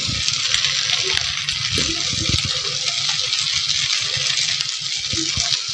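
Idli pieces coated in masala frying in a hot pan: a steady sizzle, with a few low knocks as they are stirred.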